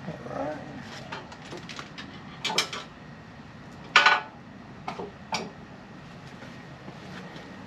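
Several sharp metallic clinks and clanks from hand work on the bandsaw's metal starter housing while its coil cover is being taken off. The loudest clank comes about four seconds in, with a couple of smaller ones about a second later.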